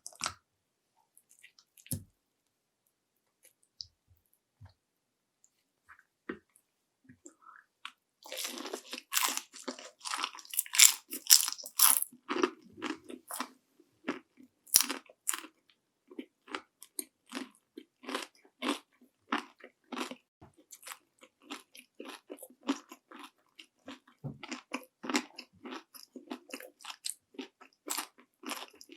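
Close-miked eating of panko-breaded fried shrimp: a few faint clicks, then about eight seconds in a loud, crisp crunching as the fried coating is bitten into, settling into steady rhythmic crunchy chewing at about two chews a second.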